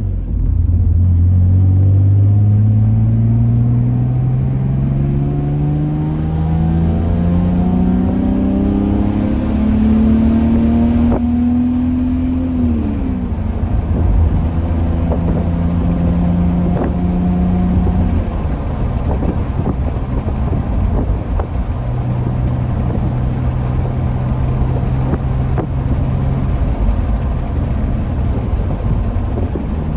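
BMW E46 engine accelerating, its pitch rising smoothly for about twelve seconds, then dropping as the revs ease off. It holds a steady note, drops again about eighteen seconds in, and runs steadily at lower revs.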